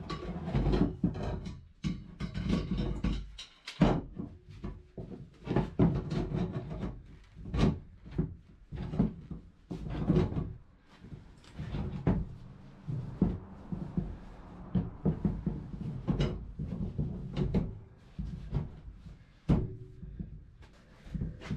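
Irregular knocks and clatter of hard objects being handled and set down, dozens of separate strikes at uneven spacing.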